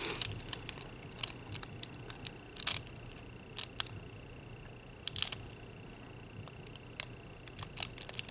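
Scattered light clicks and crinkles of nail transfer foil being handled and pressed, with a faint steady high whine that stops near the end.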